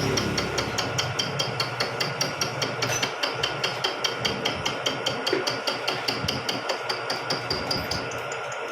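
Vertical milling machine at work, with a rapid, even ticking about five times a second over a steady hum; the ticking stops shortly before the end.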